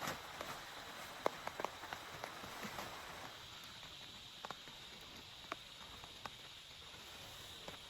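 Steady rain hissing, with separate heavy drops tapping close by. The taps come thickly for the first three seconds, then only now and then.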